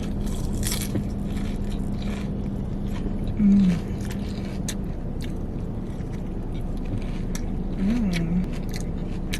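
A person chewing and crunching a salad, with scattered short crunches throughout and two short hummed 'mm' sounds, one about a third of the way in and one near the end. Under it is a steady low hum from the car.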